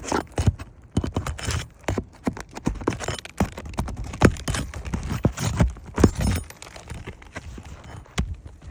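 Irregular knocks, taps and scraping from hands-on work on an asphalt shingle roof, with several sharp impacts louder than the rest.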